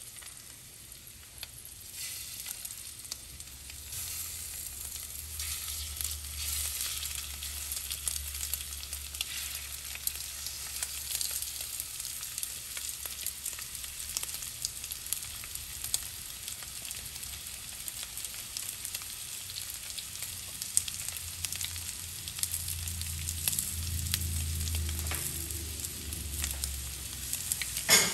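Marinated chicken pieces sizzling in hot oil in a stainless steel skillet, a steady crackling sizzle that grows louder a few seconds in. A metal spatula clinks and scrapes against the pan now and then.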